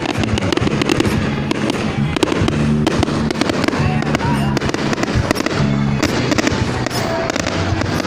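Fireworks display, dense crackling and popping bursts that go on without pause, with music playing at the same time.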